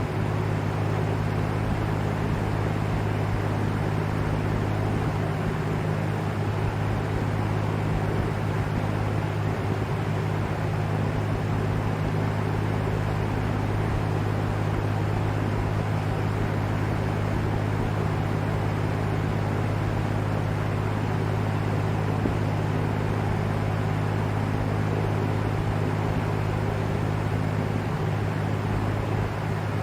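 Vintage LAU Ultra Twenty 20-inch box fan running steadily: an even rush of air over a constant low motor hum.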